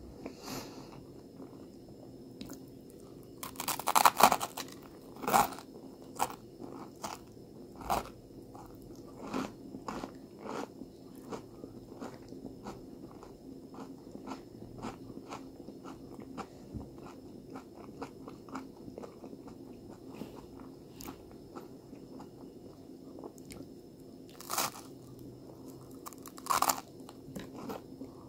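Close-miked chewing of crunchy toasted bread, many small crunches and clicks. There is a loud run of crunches about four seconds in, and more loud crunches near the end as a fresh bite is taken from the toast.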